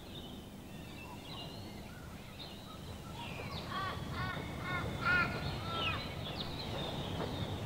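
Birds chirping, with one bird giving a run of about five loud, harsh, arching calls in the middle, over a low rumble that grows louder toward the end.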